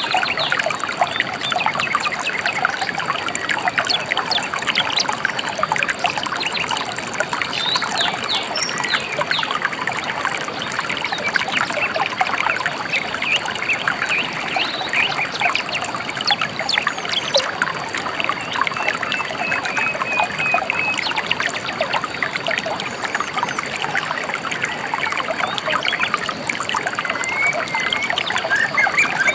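A gently flowing river trickling and babbling steadily, with occasional small bird chirps above the water, including a short trill about two-thirds of the way through.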